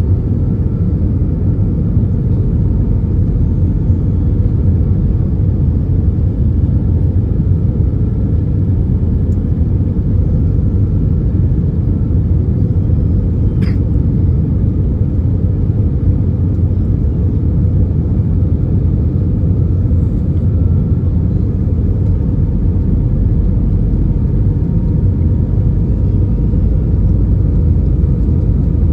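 Steady low rumble of engine and airflow noise inside the passenger cabin of an Airbus A319 in flight, with one faint click about 14 seconds in.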